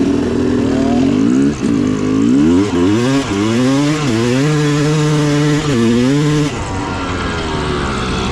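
Dirt bike engine revving hard, its pitch climbing and dropping several times as the throttle is worked, then the engine note cuts off suddenly about six and a half seconds in, leaving a steady noise.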